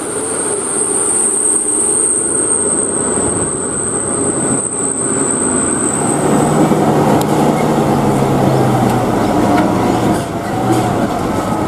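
Heavily loaded tronton diesel truck running close by, a loud steady mechanical din with a high thin whine that fades out about halfway and a deeper engine hum after it.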